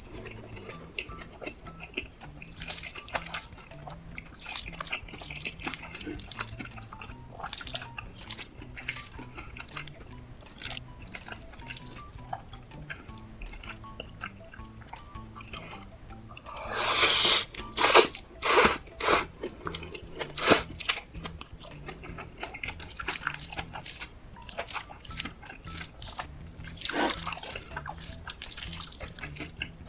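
Close-miked food and utensil sounds, scattered clicks and small scrapes with a cluster of louder bursts a little past halfway and another near the end, over soft background music.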